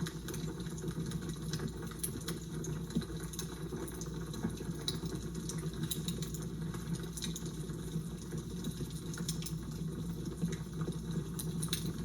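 Fire crackling: a steady low rushing bed with frequent, irregular sharp snaps and pops.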